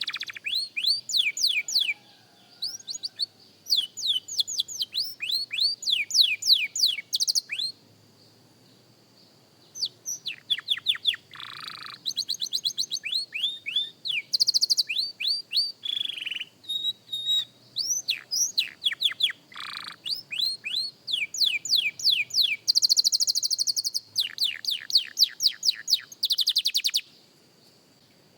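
Young canary singing: phrase after phrase of rapid trills made of quick downward-sweeping notes, with buzzier rolled passages between them and a few short pauses.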